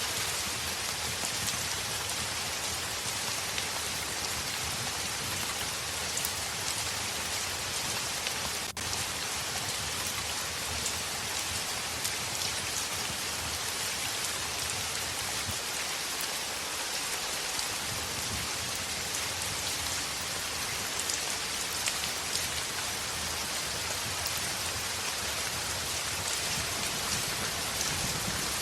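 Heavy rain on a window: a steady, dense hiss of rainfall with scattered ticks of individual drops. The sound dips briefly just before nine seconds in.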